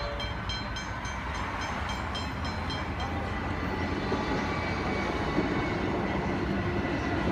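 Electric suburban train rolling in over a level crossing: a steady rumble, with a low whine starting to rise in pitch near the end. A rapid high ringing, about four rings a second, sounds over it for the first three seconds.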